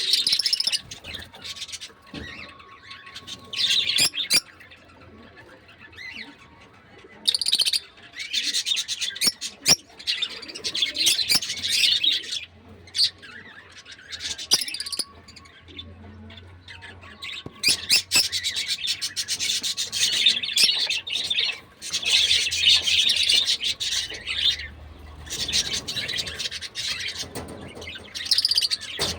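Pet lovebirds chirping and chattering in repeated bouts of shrill, rapid calls with short pauses between.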